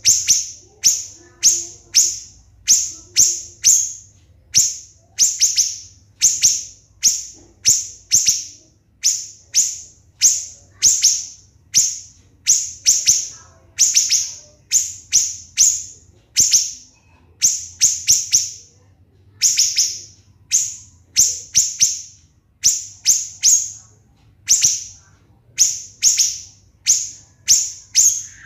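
Siri-siri bird calling in a fast run of short, shrill, high notes, about two a second and some in quick pairs, each sliding down in pitch. These are the tight 'tembakan' shots prized in songbird training recordings.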